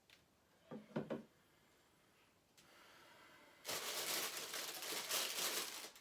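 Packaging being handled: a couple of short knocks about a second in, then loud crinkling and rustling of wrapping from a little past halfway on.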